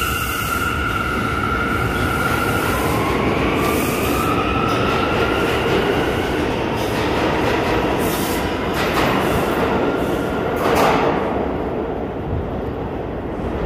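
New York City Subway train running past the platform with a loud, steady rumble. Steady high squealing tones fill the first few seconds, a whine rises in pitch from about three seconds in, and a few sharp clattering knocks come near the end.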